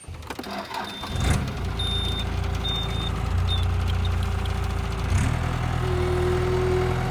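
Skid steer engine starting up and settling into a steady run, with a few short high beeps in the first few seconds; the engine note shifts about five seconds in.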